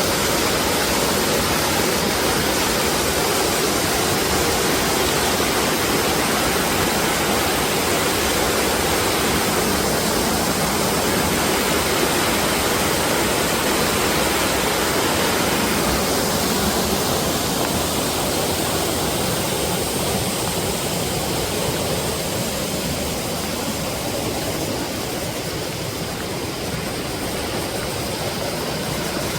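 Mountain valley stream rushing over rocks: a steady, full wash of water that eases slightly in the last third.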